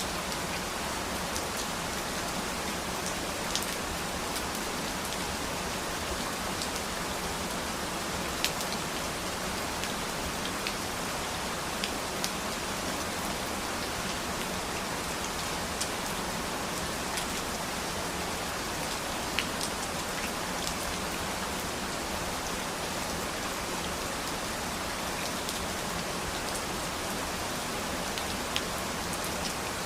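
Steady rain falling, an even hiss with scattered individual drops ticking sharply on a hard surface.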